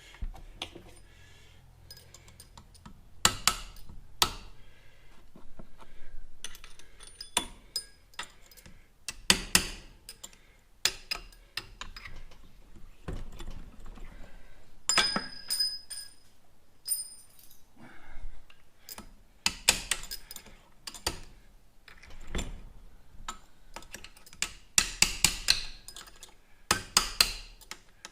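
Metal tools and motorcycle fork parts clinking and knocking during hand work on a front fork and its fork seal: scattered clinks and thunks, then a quicker run of sharp metallic taps near the end.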